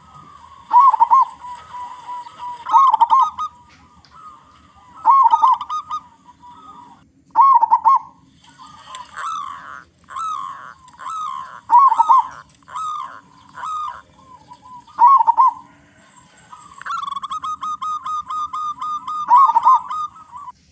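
Local zebra dove (perkutut) cooing: short trilled coo phrases repeated every couple of seconds, a run of separate rising-and-falling notes in the middle, and a fast even trill of short notes near the end.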